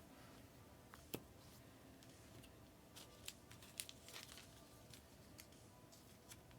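Near silence with a few faint clicks and rustles of trading cards being handled, most of them in the middle.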